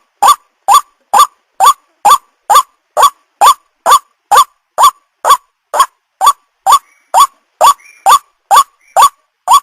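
White-breasted waterhen (ruak-ruak) calling: a short, upward-sliding note repeated evenly about twice a second, in a steady, unbroken series.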